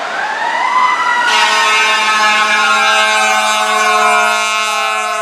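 Fire truck siren winding up in pitch and then falling slowly, with the truck's air horn blasting in a long, steady blare from about a second in.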